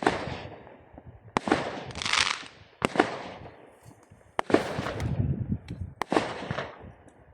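Fireworks going off: five sharp bangs roughly a second and a half apart, each fading out over a second or so.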